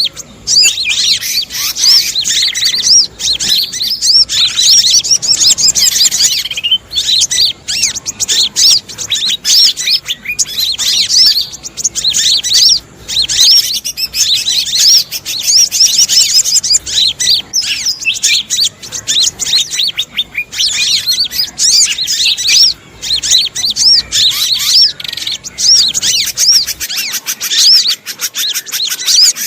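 Bird-lure recording of sogon (sogok ontong, a spiderhunter) calls mixed with a noisy chorus of small birds: dense, rapid, high chirping and twittering with only brief pauses.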